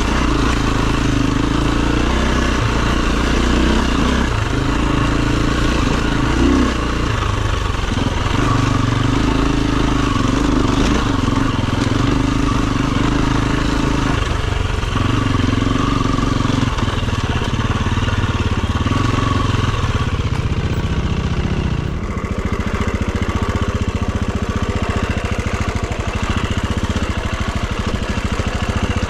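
Enduro dirt bike engine running under changing throttle, its pitch stepping up and down in short surges; a few seconds before the end it drops to a lower, steadier note.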